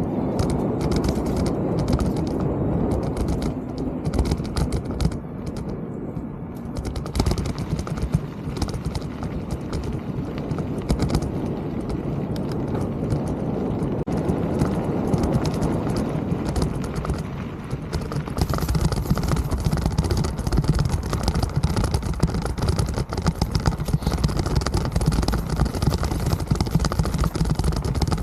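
Mountain bike rolling over rough trail: a dense, continuous rattle of clicks and knocks over a low rumble, growing brighter and harsher about two-thirds of the way through.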